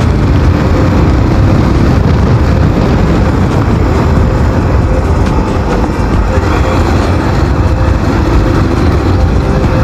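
Motorcycle riding at speed: steady wind rushing over the microphone over the engine and road noise, loud and unbroken.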